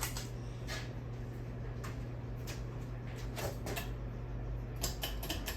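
Ceiling fan motor running with a steady low hum, with light irregular clicks scattered over it.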